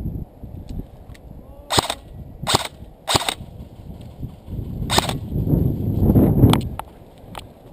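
Airsoft guns firing single shots: three sharp cracks about two-thirds of a second apart, then one more about two seconds later. A low muffled rustle swells to the loudest point in the second half, with a few faint clicks near the end.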